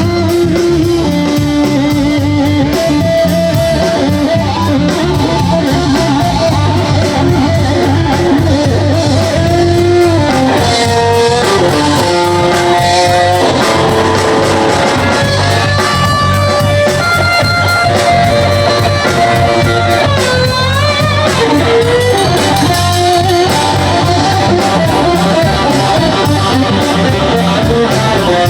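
Live blues-rock band playing: a lead electric guitar plays held notes and bent notes over a steady bass and drum backing.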